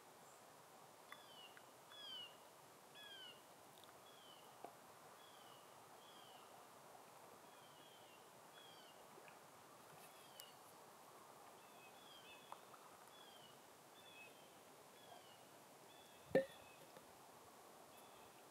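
A small bird calling faintly, a series of short high down-slurred notes repeated about once or twice a second, over quiet forest background. Near the end one sharp knock stands out, with a few softer clicks scattered earlier.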